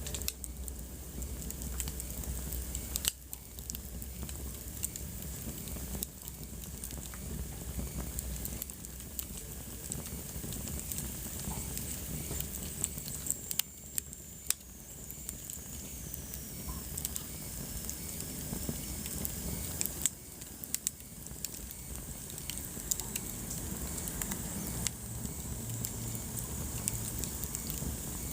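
Wood fire burning in a fireplace: steady crackling with frequent sharp pops, over a low rumble and hiss of the flames. A faint high hissing whistle slides down in pitch about halfway through.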